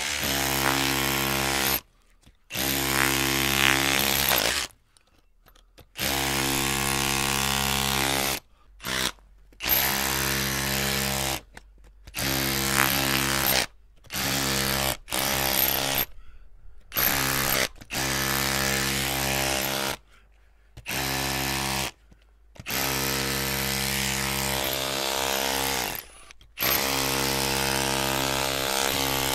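Electric drill running in about a dozen bursts, some under a second and some several seconds long, stopping and starting again with short near-silent gaps between. Each burst holds a steady motor pitch.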